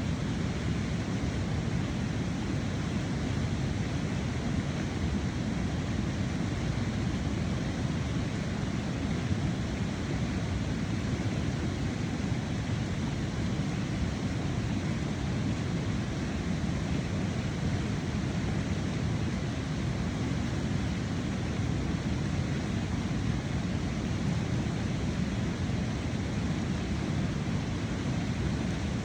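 Steady rushing of a fast-flowing river current, an even unbroken noise with most of its weight low down.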